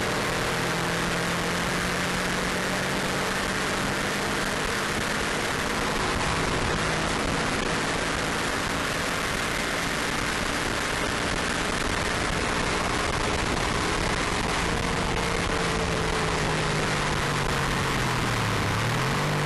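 Subaru Impreza WRX RA's turbocharged flat-four engine, with a stainless exhaust, running hard at speed under heavy wind and road noise. Its note holds fairly steady, eases down near the end, then dips and climbs quickly again just before the end.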